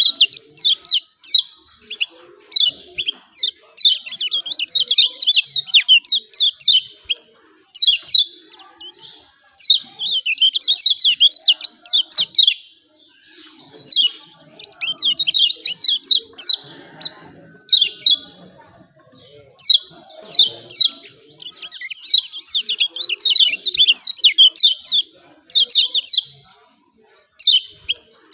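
Kecial kuning (Lombok white-eye) singing its rapid 'ciak ciak' chirping song in quick high-pitched runs of a second or more, broken by short pauses. It is a lure recording meant to prompt a reluctant caged kecial to start singing.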